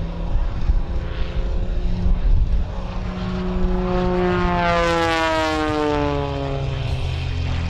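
Single-engine aerobatic propeller plane flying past. Its propeller and engine drone falls steadily in pitch as it passes, loudest around five seconds in.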